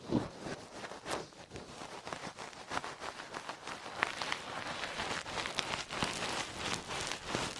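ASMR towel and ear-pick sounds on a close microphone: irregular soft scratching and rubbing strokes, several each second, with no steady rhythm.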